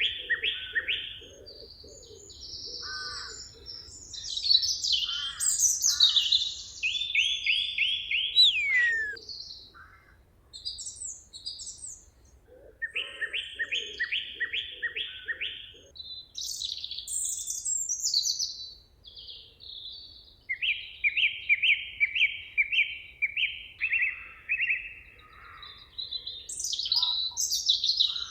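Several songbirds singing. Phrases of rapid, evenly spaced repeated notes come back several times, mixed with varied higher chirps and whistles.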